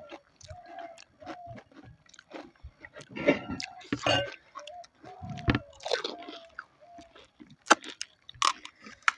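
Panipuri being eaten: crisp puri shells crunched and chewed in irregular bursts.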